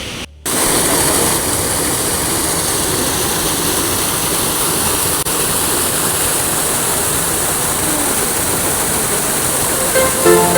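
Steady rushing of running water, a continuous even noise, briefly cut off just after the start.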